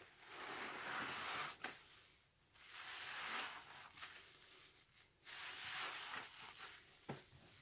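A sponge soaked in washing-machine liquid squeezed three times, each squeeze a wet, sudsy squish lasting about a second, with a couple of small clicks.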